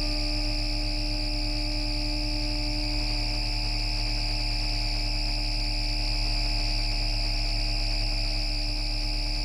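MITRAC IGBT VVVF inverter and traction motor of a Bombardier Flexity Outlook tram, heard as electrical noise picked up on a radio: several steady whining tones over a low pulsing hum, holding nearly the same pitch, as when running at a constant speed.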